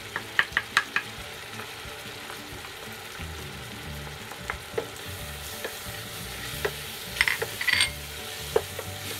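Wooden spoon scraping spices off a small bowl into a stainless steel pot and stirring a sizzling onion and tomato curry base. Several sharp taps come in the first second, and a short clatter comes about seven seconds in.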